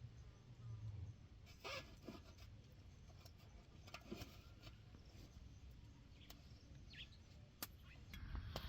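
Near silence: faint background with a few scattered soft clicks and taps.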